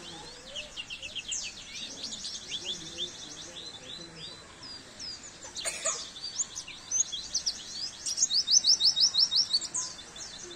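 Pleci (white-eye) singing a fast, continuous twittering of high chirps, with a quick run of evenly repeated rising notes about eight seconds in. A short click sounds near the middle.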